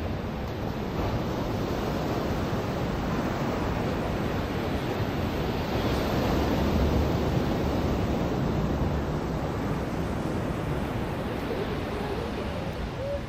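Ocean surf washing on a beach: a steady rush of breaking waves that swells to its loudest about seven seconds in, then eases off.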